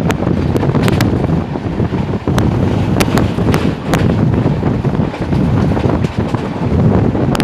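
Wind buffeting the microphone on a moving passenger train, over the loud, steady rumble of the coach running on the rails. Sharp clicks come and go, several of them between about one and four seconds in.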